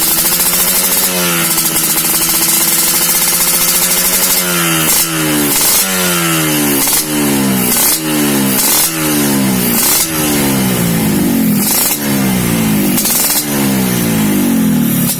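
Motorcycle engine through a galvanized underbelly aftermarket exhaust with a size-35 tube, running steadily at first, then blipped repeatedly, its pitch rising and falling back about once a second.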